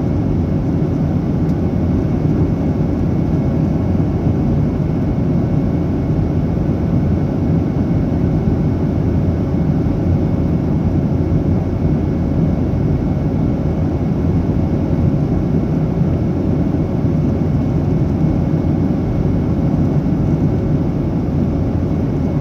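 Boeing 737-800's CFM56-7B turbofans and airflow heard from inside the passenger cabin in flight: a steady, even rumble with a faint steady whine on top.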